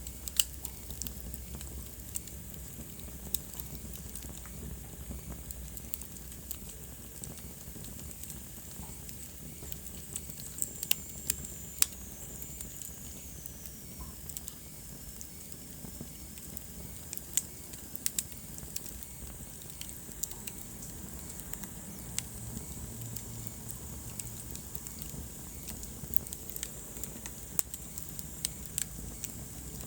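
Wood fire in a fireplace crackling, with scattered sharp pops over a steady low rumble. A faint high whistle falls in pitch about eleven seconds in.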